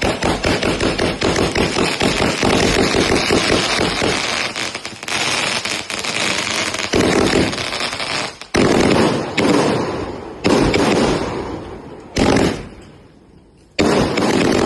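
Multi-shot fireworks cake (battery) firing: a dense, rapid string of cracks and bangs for about eight seconds, which then breaks into separate loud bursts every second or two, each trailing off.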